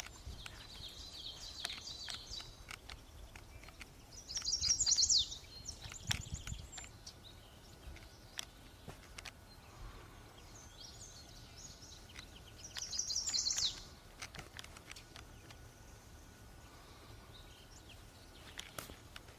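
A songbird singing: two loud phrases about eight seconds apart, each a fast high trill ending in a downward slur, with softer chattering notes at the start.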